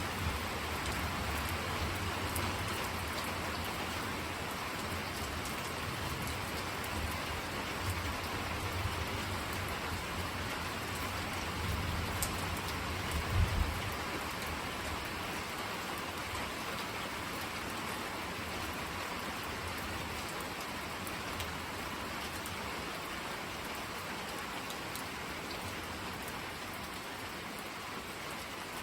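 Steady rain falling, with a low rumble of thunder under it through the first half that swells to its loudest about halfway through, then dies away.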